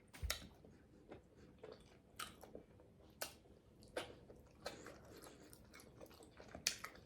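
Close-up chewing and biting: short, scattered crunches and wet mouth clicks of someone eating cooked asparagus spears that still have a crunch.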